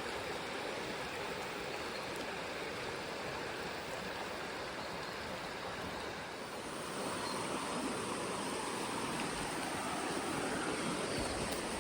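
Hatea River running over rocks: a steady rush of flowing water that grows a little louder about halfway through, when a thin high hiss also joins.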